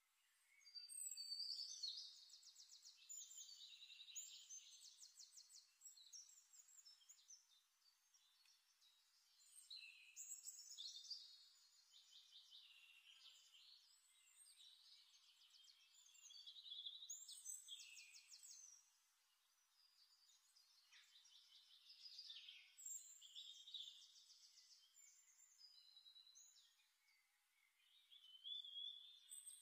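Faint songbird song: warbling phrases with rapid trills, each lasting a few seconds and coming back about every six seconds.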